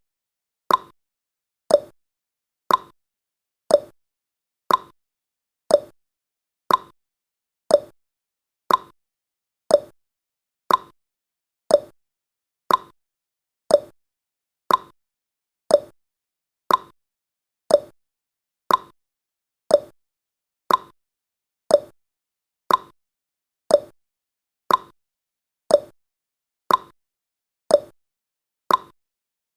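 Clock tick-tock sound effect of a countdown timer: one short tick a second, alternating higher and lower in pitch.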